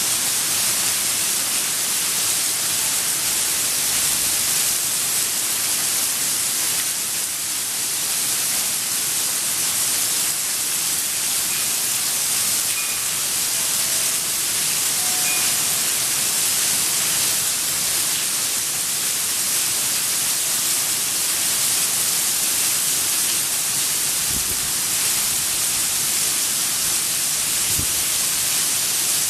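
Heavy rain pouring down in a thunderstorm, a steady unbroken hiss.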